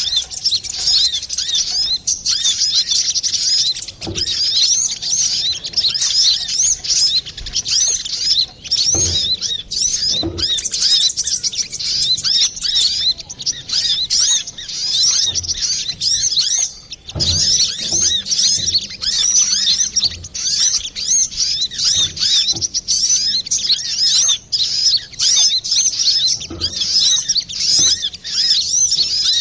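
Kolibri kelapa sunbird singing a fast, unbroken stream of high chirps and twittering trills, with only brief pauses. A few faint low knocks sound now and then.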